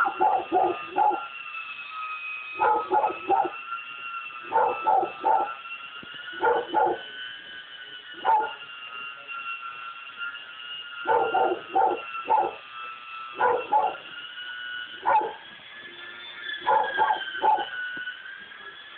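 A dog barking in short bursts of one to four barks, every second or two. A steady high whine runs underneath.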